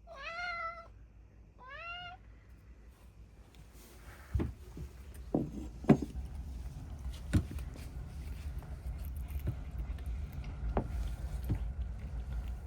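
A cat meows twice, each call rising in pitch, the second shorter. After that come scattered light knocks and clicks over a low rumble.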